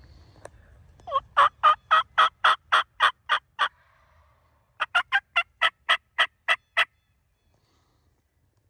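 Wild turkey yelping: two loud, evenly paced series of turkey calls at about four notes a second, the first about eleven notes long and the second about nine, each note dropping in pitch.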